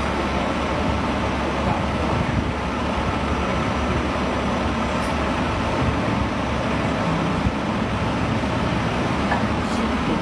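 Steady street traffic noise with a continuous low engine rumble.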